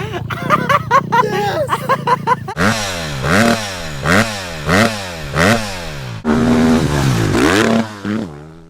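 Motocross bike engine revving. Quick, choppy revs at first, then about half a dozen rises and falls in pitch one after another, each lasting under a second, before it cuts off near the end.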